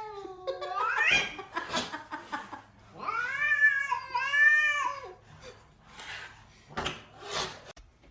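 A cat meowing in drawn-out calls: a rising call in the first second, then a longer, wavering call from about three to five seconds in. Two short, noisy sounds follow near the end.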